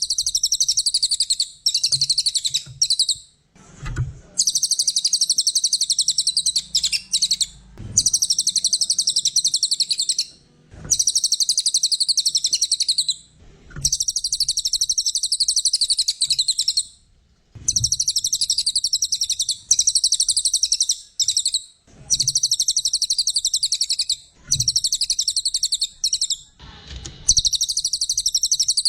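Brown cililin songbird singing long, rapid, high-pitched chattering phrases of about two to three seconds each, over and over with short pauses between, with a few faint soft thumps in the gaps.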